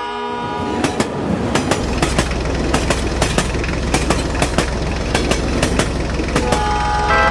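Train running over track, with a rhythm of clickety-clack wheel clacks over a steady rumble, and a horn starting to sound near the end.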